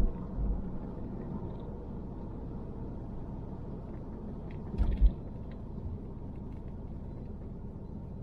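A car driving, heard as a steady engine and road rumble, with a low thump and a few small clicks about five seconds in.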